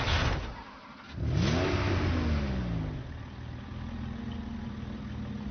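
Cartoon sound effects: a sudden crash, then an engine-like sound that rises and falls in pitch, like revving, over a low rumble.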